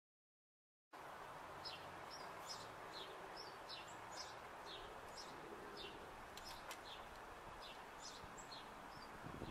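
Small birds chirping faintly, about two short high chirps a second, over a steady outdoor background hiss. It all starts after about a second of silence.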